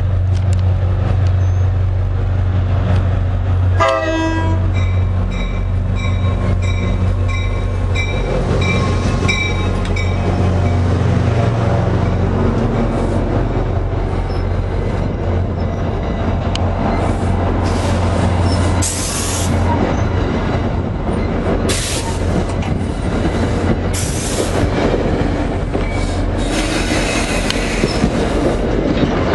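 Diesel-hauled commuter train passing close by, its engine humming low. A brief horn sounds about four seconds in, followed by a bell-like ring repeating about twice a second. Then the coaches roll past with wheels squealing on the curve in repeated hissing bursts.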